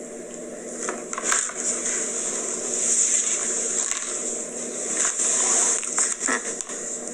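Crinkling and rustling of a snack packet of cookies being handled and opened close to the microphone, with scattered sharp crackles over a steady low hum.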